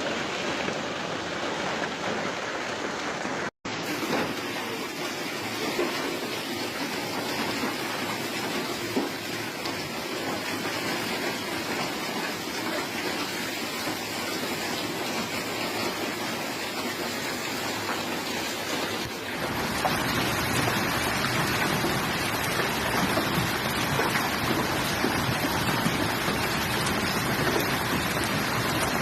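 Steady hiss of a heavy downpour. A brief dropout comes about three and a half seconds in, and about two-thirds of the way through it switches to a louder, brighter stretch of downpour.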